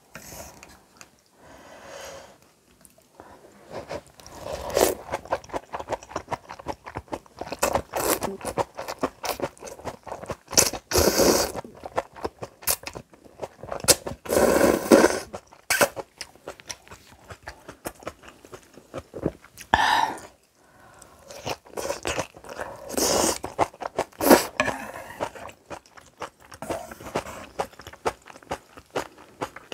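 Close-up eating sounds: irregular crunching and chewing of crisp kimchi, with a few longer, louder bursts near the middle.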